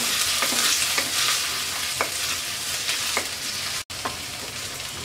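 Chopped onion and ginger sizzling in hot oil in a metal karai, stirred with a wooden spatula that scrapes against the pan a few times. The sound drops out for an instant near the end.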